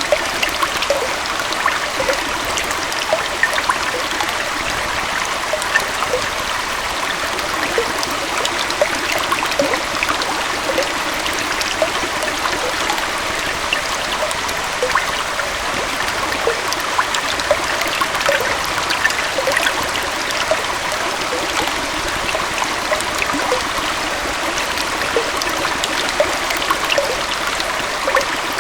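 Small forest waterfall and stream flowing steadily, a constant rush of water with many small gurgles and splashes.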